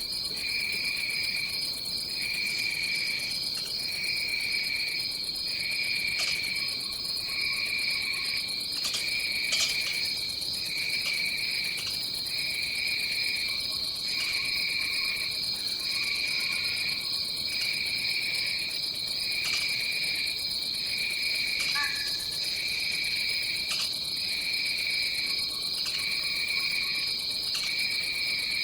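Insect chorus in a tropical forest: one insect keeps up a steady high-pitched trill, while a second, lower one chirps in pulses of about a second with short breaks between them. A few faint ticks come through now and then.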